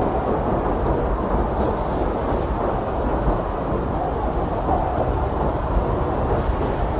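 Blizzard wind blowing hard and steadily, a dense rushing noise with a deep rumble underneath and no single gust standing out.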